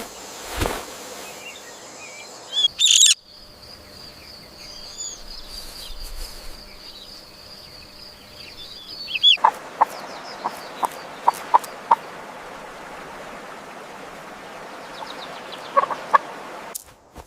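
Bird calls: a loud high call about three seconds in, then a long, steady, high whistled note held for about six seconds, then a quick series of short sharp notes, with a few more near the end.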